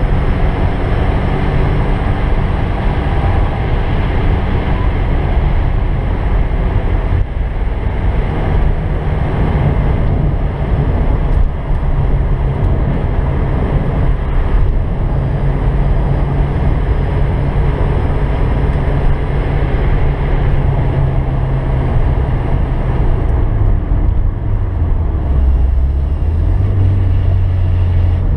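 1986 Porsche 944's four-cylinder engine pulling hard at track speed, heard inside the cabin with wind and road noise. The engine note is steady and high apart from a brief break about seven seconds in. About 23 seconds in it drops lower, then starts to climb again near the end.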